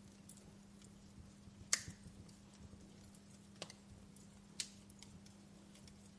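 Wood fire crackling in a fireplace: scattered faint ticks and snaps with three louder pops, the loudest about two seconds in. A faint steady low hum lies underneath.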